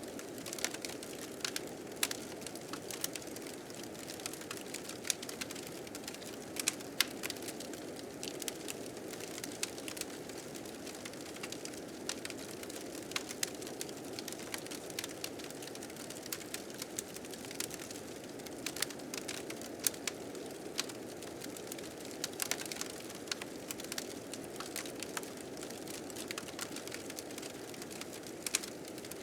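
Wood fire crackling, with frequent irregular sharp pops and snaps over a steady low rushing of blizzard wind.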